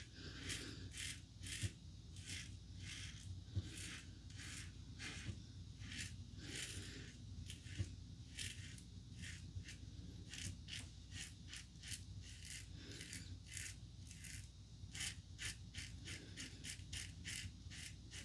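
Safety razor (The Razor Company Vanguard with the standard plate) scraping through lathered stubble in quick short strokes, about two a second, with a few brief pauses between runs of strokes.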